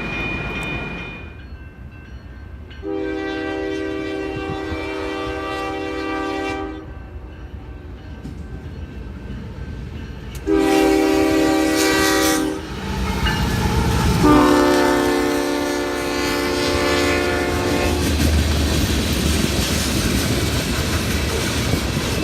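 Locomotive horn sounding three blasts: a long one, a shorter one, then another long one. Afterwards the train rolls by with a low rumble and wheel-on-rail noise.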